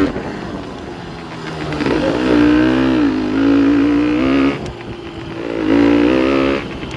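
Honda CRM125R's single-cylinder two-stroke engine revving up under throttle twice, each time held high for about a second or two before dropping back.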